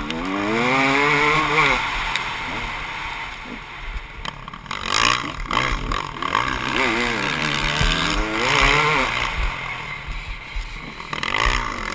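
Motocross dirt bike engine revving up and dropping back again and again, its pitch climbing and falling about four times.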